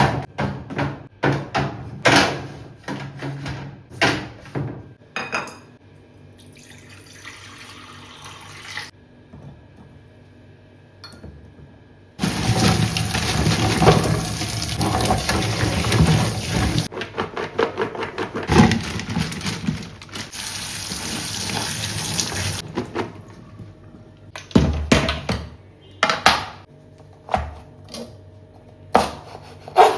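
Kitchen tap running into a sink for about ten seconds, with two short breaks in the flow, while something is washed under it. Before and after, containers and dishes clatter and knock as they are handled.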